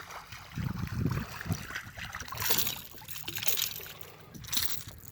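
Water splashing and sloshing around a small boat, in irregular surges.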